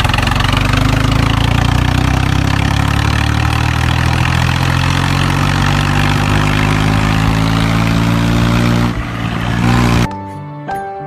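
Tractor engine running steadily under load, its pitch slowly rising over several seconds. It cuts off abruptly about ten seconds in and soft music begins.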